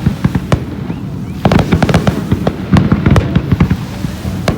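Fireworks going off in rapid succession: many sharp cracks and bangs over a continuous low rumble, easing off briefly about half a second in before a fresh barrage.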